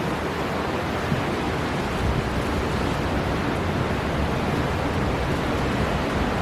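Storm wind and heavy sea surf: a steady rush of noise, with rumbling low gusts that swell and ease.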